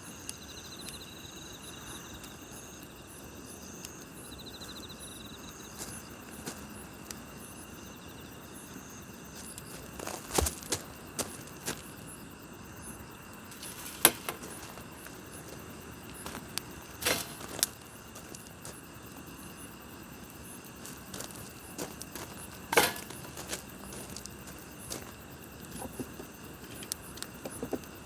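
Campfire burning with sharp pops and crackles every few seconds, the loudest about ten, fourteen, seventeen and twenty-three seconds in, over a steady chorus of night insects chirping.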